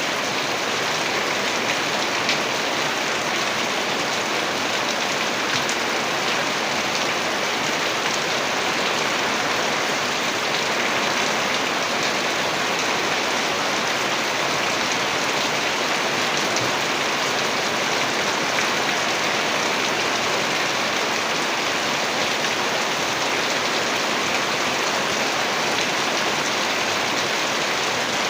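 Heavy rain falling steadily, a dense even hiss of drops striking surfaces, with a few sharper drop ticks standing out.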